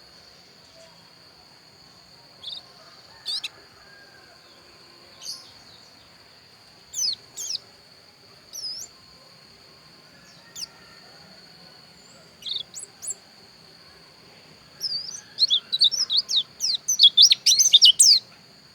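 A pleci dakun white-eye giving scattered short, high chirps, then breaking into a fast run of twittering song a few seconds before the end, the loudest part. A steady high-pitched tone runs underneath.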